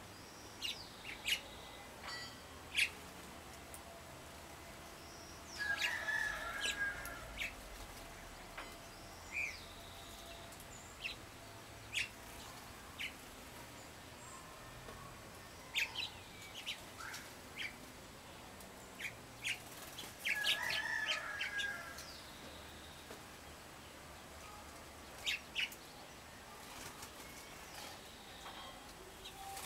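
Wild songbirds chirping: many short, sharp calls scattered throughout, with two longer, busier bursts of sound about six seconds in and again about twenty-one seconds in.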